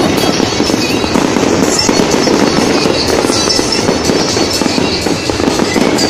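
Aerial fireworks display bursting and crackling, a dense, unbroken run of bangs.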